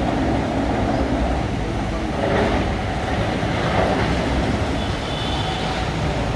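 Torrential monsoon rain pouring steadily over flooded streets, with a constant low rumble underneath.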